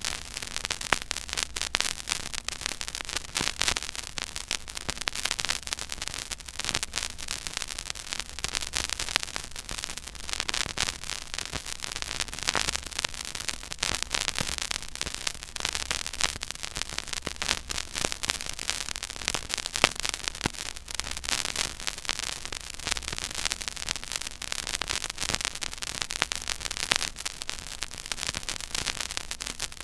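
Surface noise from a silent vinyl record groove playing at 33⅓ rpm: steady hiss thick with crackles and pops. Underneath is a low rumble that swells about once every two seconds, once per turn of the record.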